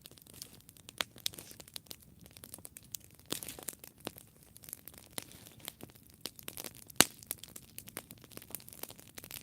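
Campfire wood burning and crackling: irregular sharp pops and snaps over a soft hiss, with a dense flurry of crackles about three seconds in and one loud pop about seven seconds in.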